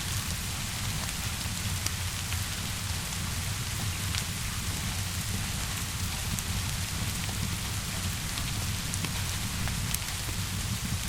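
Steady rain falling on surfaces, an even hiss over a low rumble, with scattered sharp crackles and pops from a wood fire.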